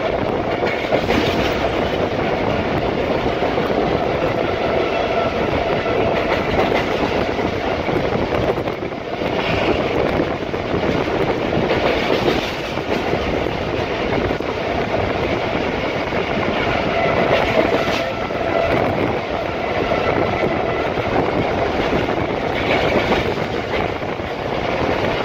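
Passenger train coaches running at about 80 km/h, heard from inside a carriage by the window: a steady, loud rumble and rattle of the coach and its wheels on the rails.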